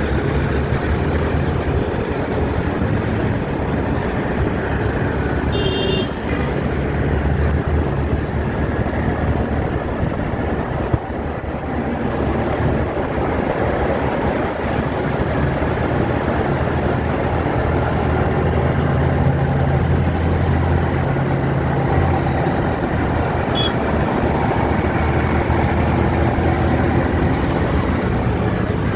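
Steady city road traffic with engines running, and a short high tone about six seconds in.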